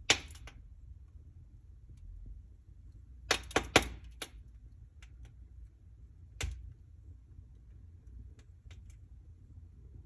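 Wood fire in a fireplace crackling: a sharp pop at the start, a quick cluster of four or five pops about three and a half seconds in, another about six and a half seconds in, and faint ticks in between, over a low steady rumble.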